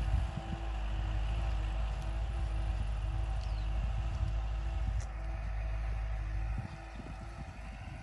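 Kubota L5018SP tractor's diesel engine running steadily, with low wind rumble on the microphone; it drops a little in loudness near the end.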